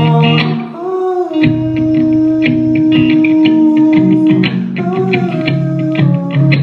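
Live rock band music: guitars playing an instrumental passage over a steady beat, with a brief drop in level about a second in.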